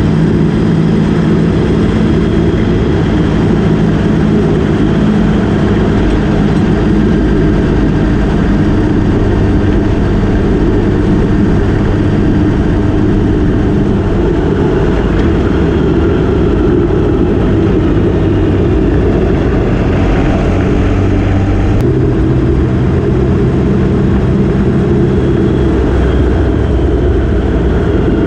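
Motorcycle engine running steadily under way, mixed with heavy wind rush on the microphone. The engine note shifts to a different pitch about three-quarters of the way through.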